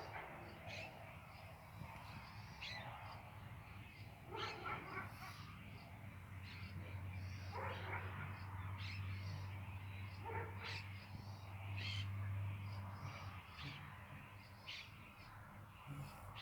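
Birds calling in a garden: short, sharp calls repeating about once a second. A steady low hum runs underneath and grows louder in the middle.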